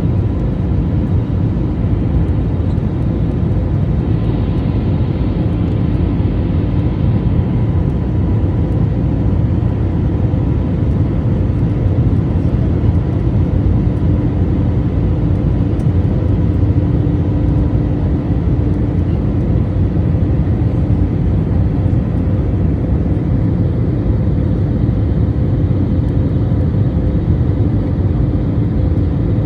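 Airliner cabin noise: the jet engines and airflow running as a loud, steady low rumble, with a few steady hums on top.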